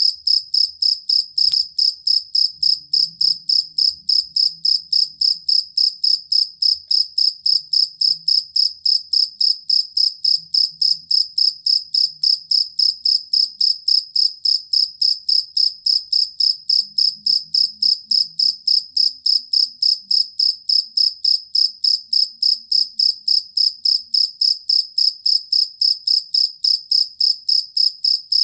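A field cricket (jangkrik kalung) chirping: a steady, high-pitched chirp repeating about three times a second without a break.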